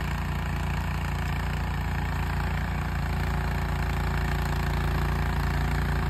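Snowblower engine running steadily as the machine eats through deep snow: an even engine drone with a haze of noise over it.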